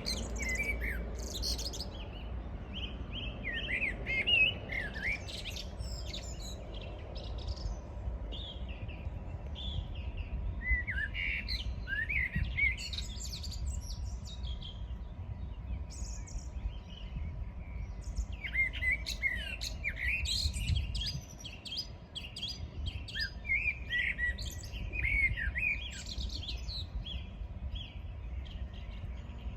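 Morning birdsong: several birds singing and chirping in bursts of short, high twittering phrases and trills, over a steady low rumble.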